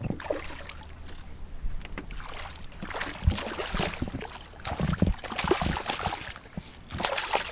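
Irregular knocks and bumps with surges of water noise aboard a small fishing boat; the sharpest knock comes about three seconds in.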